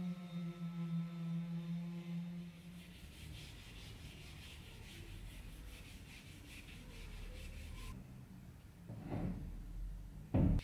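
A steady low hum for the first couple of seconds, then repeated rubbing strokes on wood, as in hand-sanding or scraping. Two loud thuds come near the end, the last the loudest.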